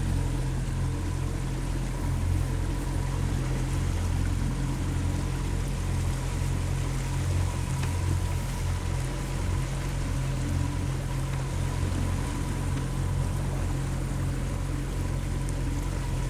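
A boat's motor running steadily under way, with water rushing past the hull.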